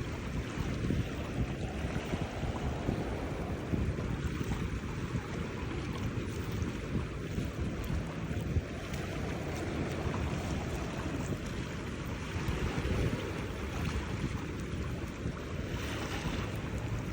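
Mediterranean surf washing onto the beach, with wind rumbling on the microphone; the hiss of the surf brightens near the end.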